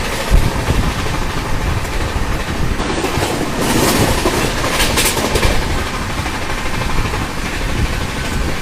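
Express passenger train running at speed, its wheels clattering on the rails under a steady rumble. The clatter and rattling grow louder from about three to five and a half seconds in.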